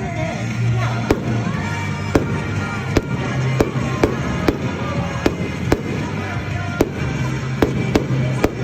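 Fireworks show: about a dozen sharp bangs of bursting shells, coming every half second to a second at an uneven pace.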